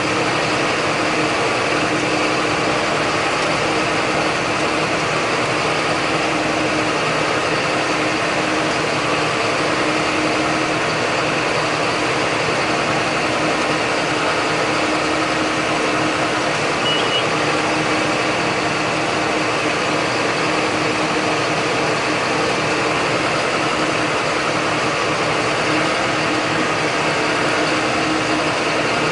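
John Deere 8100 tractor's six-cylinder diesel engine running at a steady speed while pulling a baler through the hay, a continuous even drone.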